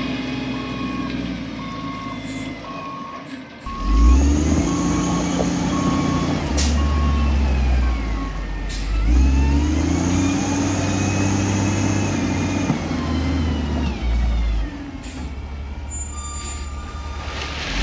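Heavy construction machine's diesel engine running and revving up and down, with a reversing alarm beeping about once a second that stops about eight seconds in.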